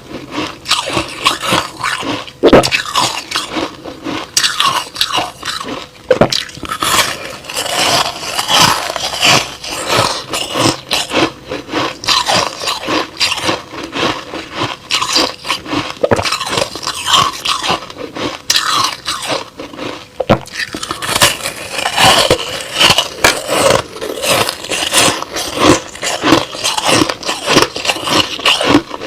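Crushed ice slush being bitten and chewed close to the microphone, with continuous irregular crunching and crackling.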